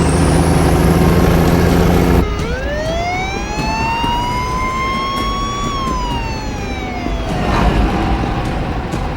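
Heavy truck engines running loud under a high rising squeal, cut off suddenly about two seconds in. A siren-like wail then rises for about three seconds and falls away.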